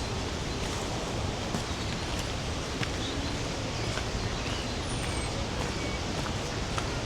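Steady rushing roar of the Rhine Falls, a large waterfall, with two faint high chirps of a small bird, one near the start and one about five seconds in.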